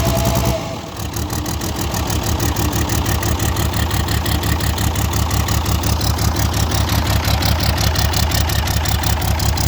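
Ursus 1201 tractor's six-cylinder diesel engine idling with a steady, even beat after a cold start in −15 °C frost. The sound drops briefly about half a second in, then picks up again.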